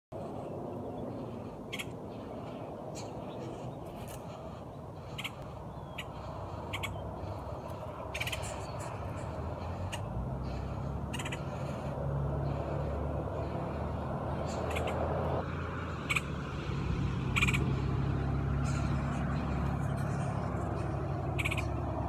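Short, sharp bird chips every second or two over a steady low drone, which grows louder about halfway through.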